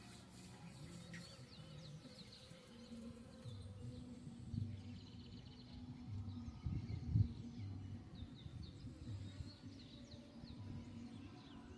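Birds chirping and calling with many short twittering notes, over a low steady hum, with a brief low thump about seven seconds in.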